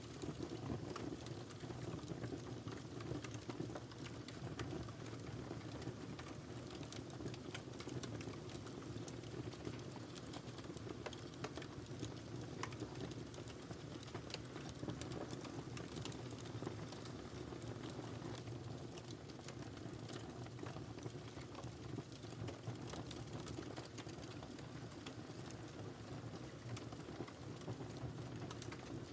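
Wood fire crackling in a fireplace: a steady low rumble of burning with frequent small pops and snaps scattered throughout.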